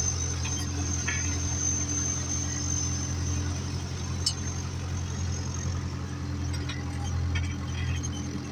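Ursus 385 tractor's diesel engine running steadily, with a thin high whine over it that fades out about halfway through.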